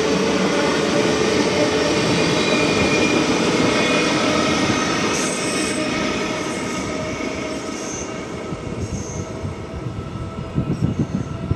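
Train running past: a steady rush of wheels on rail with a few thin whining tones, easing off over the second half, then a brief uneven rumble and clatter near the end.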